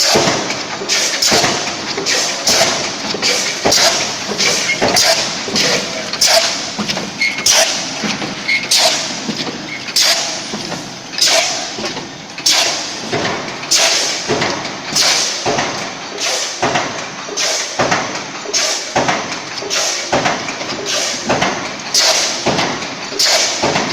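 Paint-can lid production line running: a stamping press fed by a semi-automatic CNC feeder strikes about once a second, each stroke a sharp metallic thump over steady machine noise.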